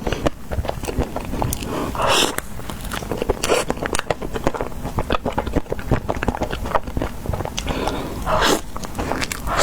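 Close-miked eating of ice cream: bites and chewing with many small crisp clicks and crackles, and three louder wet, noisy bursts about two, three and a half and eight and a half seconds in.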